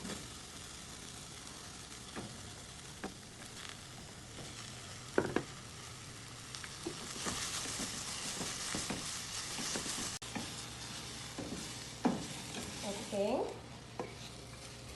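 Sliced carrots and red pepper stir-frying in hot oil in a pan, sizzling steadily, with a few knocks of the utensil against the pan. The sizzle swells for a few seconds around the middle.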